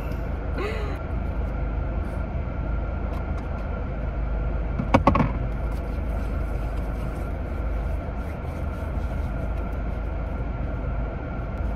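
Car idling, heard from inside the cabin as a steady low hum, with a brief louder clatter about five seconds in.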